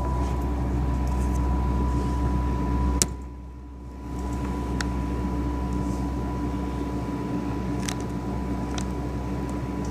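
Steady low rumble of a passing freight train's diesel locomotives, heard through window glass. A sharp click about three seconds in is followed by a brief drop in level, and a thin steady whine runs underneath.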